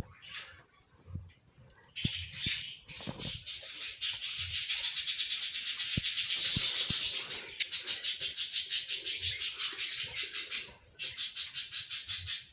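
Budgie sounds: a fast, even run of high-pitched pulses, starting about two seconds in, with a short break near the end.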